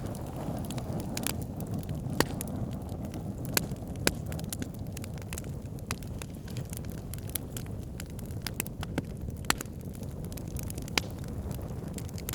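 Wood burning in a campfire: a steady low rumble of flames with frequent crackles and several louder sharp pops.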